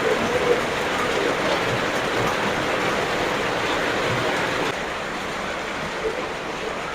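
Heavy rain falling, a steady hiss that eases slightly about two-thirds of the way through.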